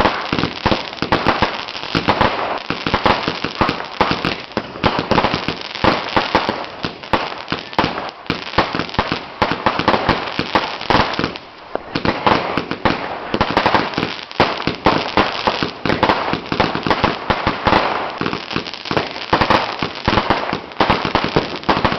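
Fireworks going off in a dense, rapid string of cracks and bangs, with a short lull about halfway through.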